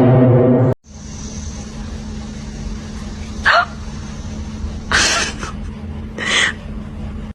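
A loud low tone cuts off under a second in. Then a dog barks three times over a steady low hum.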